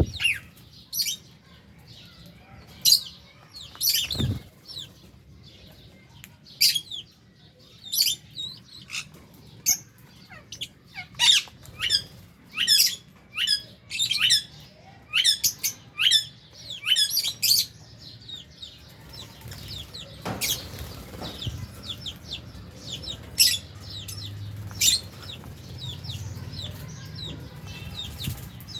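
A flock of lovebirds calling: many short, shrill chirps, several a second over the first two-thirds, then softer background chatter with a few louder calls.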